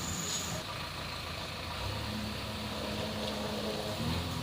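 Heavy diesel engine running steadily, its pitch stepping up slightly near the end.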